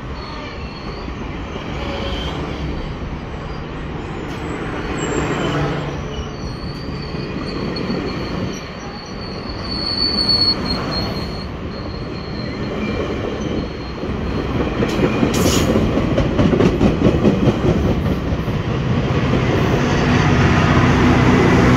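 GO Transit bilevel commuter train rolling past on steel wheels. Its wheels squeal in a high tone through the middle, then click in an even rhythm over the rail joints. The train gets louder toward the end.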